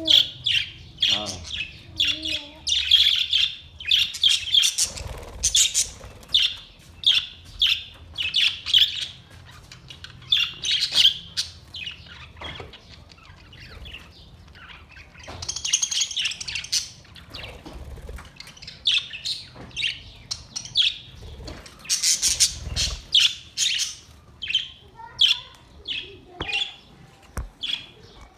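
A group of budgerigars chirping and chattering, with rapid clusters of short high chirps and squawks, briefly quieter around the middle.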